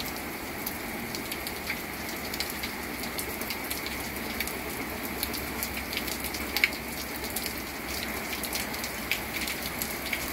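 Rain falling steadily, an even hiss with scattered sharp ticks of drops striking close by.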